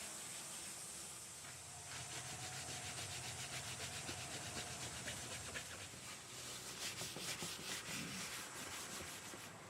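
A steady hiss, then from about two seconds in a quick, even run of abrasive rubbing strokes on the rusted bus body, as in rust removal.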